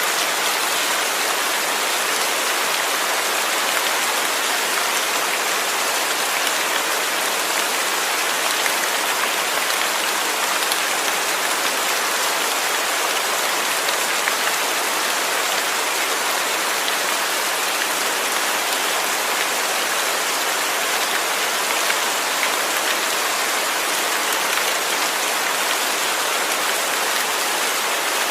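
Steady, even rain falling and pattering on surfaces, with no breaks or distinct events.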